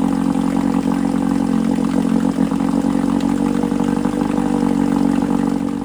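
Old OMC 9.5 hp two-stroke outboard motor running steadily in a test drum of water. It stops abruptly at the end.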